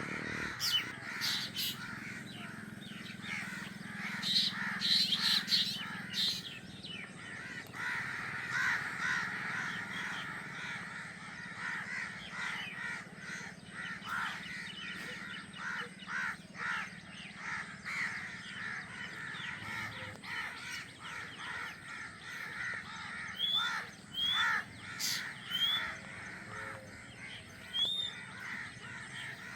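Newly hatched drongo chicks calling without pause from the nest, a dense stream of short begging calls as they wait to be fed. A few short, rising chirps stand out in the last few seconds.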